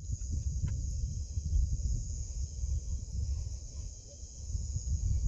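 Night chorus of crickets, a steady high-pitched trill, over an uneven low rumble.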